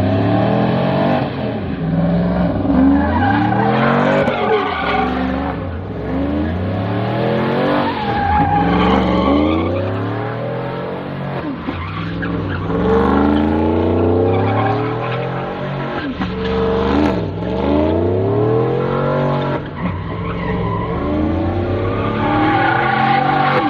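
Car engines revving hard, their pitch climbing and falling back again and again, several at once.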